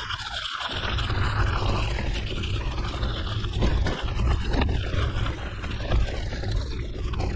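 Mountain bike riding on a gravel forest road: steady tyre noise over the gravel, with wind rumbling on the microphone.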